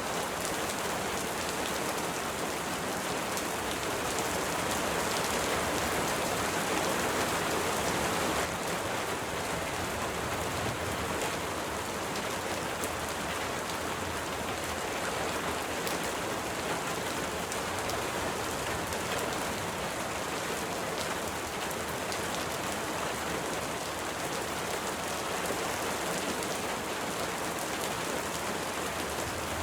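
Steady rain falling, an even hiss with many individual drops ticking. It is slightly fuller for the first several seconds, then eases down abruptly and stays even.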